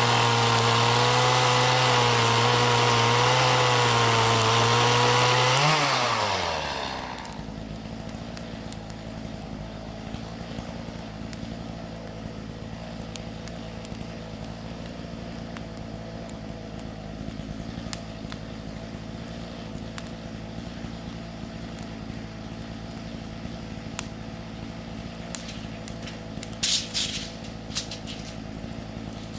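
Two-stroke chainsaw fitted with a ripping chain running at a steady, loaded speed in a lengthwise milling cut, then winding down and stopping about six seconds in. A much quieter steady low hum carries on afterwards, with a few ticks and a short rustling burst near the end.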